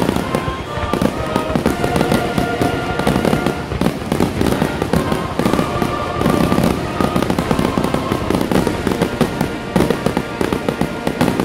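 Fireworks finale: a rapid, unbroken barrage of bangs from bursting shells, with short whistling tones mixed in.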